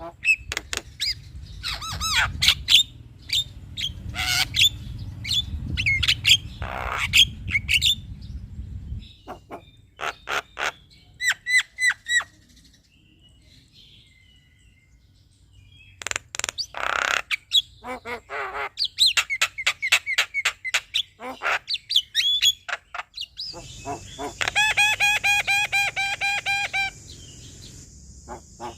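Male Javan myna (jalak kebo) singing: a busy string of sharp calls, whistles and chattering notes, broken by a pause of a few seconds near the middle. Near the end comes a quick run of evenly repeated ringing notes.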